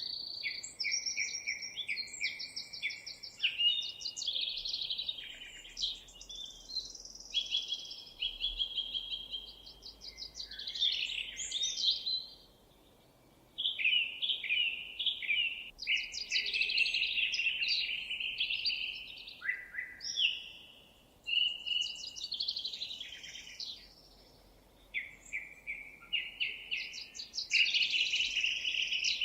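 Songbirds singing long, rapid, warbling and trilling phrases, with short pauses about twelve and twenty-four seconds in.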